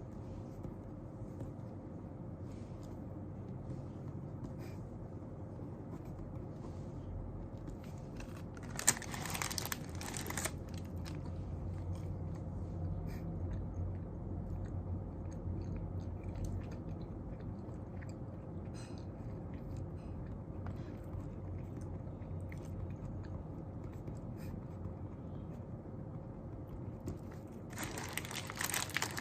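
Quiet desk sounds of someone studying over a steady low room hum: faint small taps and scratches, and two short rustles, one about nine seconds in and one near the end.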